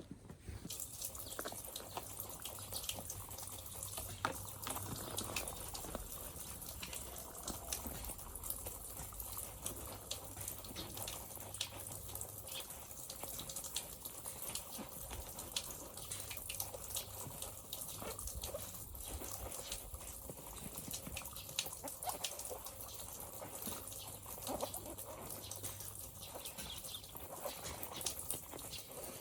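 Water running from a tap while a soft-vinyl Ultraman Leo figure is washed, with many small clicks and rubbing sounds from the handling and scrubbing.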